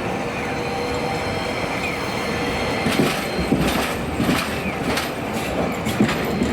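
Toyama Chiho Railway streetcar moving along the track with a steady rumble, its wheels breaking into a run of clicks and clatter from about halfway through.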